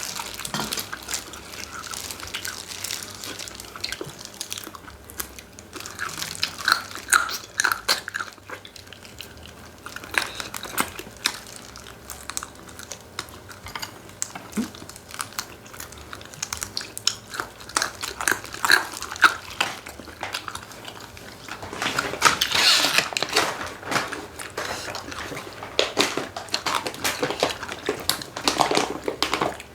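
Close-miked sounds of eating chicken: biting, chewing and crunching with many small clicks and crackles. They are busiest about three quarters of the way in and again near the end.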